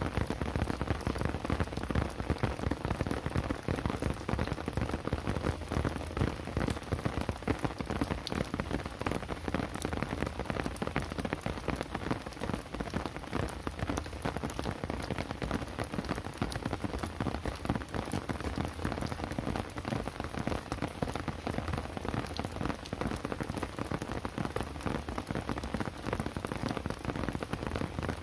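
Steady rain falling on surfaces, a dense continuous patter of drops.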